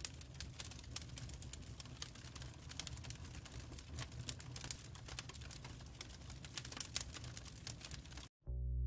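Dense, irregular crackling clicks over a low steady hum, which cut off near the end as plucked guitar music begins.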